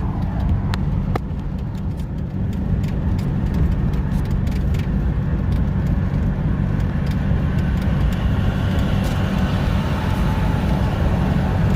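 Cummins diesel engine of a 2019 Ram 5500 running steadily with its full exhaust brake on, holding the truck's speed down a 6% grade without the service brakes. A few faint clicks sound in the first few seconds.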